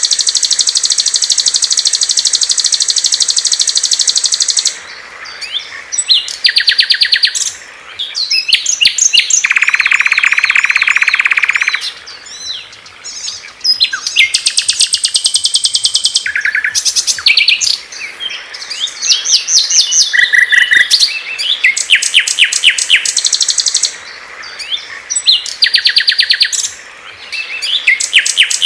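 Small songbirds singing loud, fast high-pitched trills and chirp series, with a lower buzzing trill of a few seconds near the middle.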